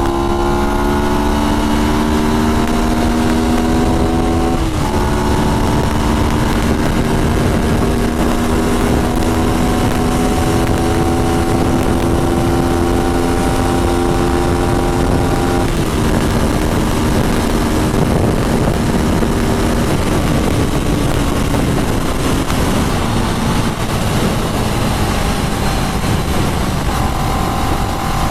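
CFMoto 400NK's parallel-twin engine on its stock exhaust, pulling through the gears while riding. The engine note climbs slowly, drops at an upshift about five seconds in and again at about sixteen seconds, then sinks slowly as the throttle eases off, over steady wind and road rush.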